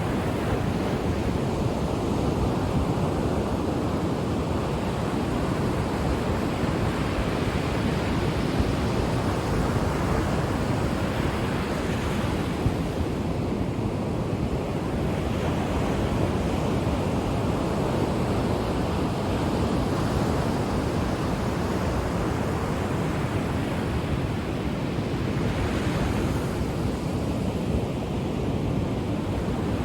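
Ocean waves washing onto a shore in a continuous rushing hiss, swelling as a wave breaks three times, roughly every twelve seconds.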